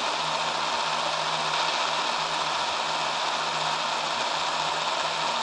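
Steady static hiss from a software-defined radio receiver tuned off-channel on the 2-metre ham band, with a faint low hum under it.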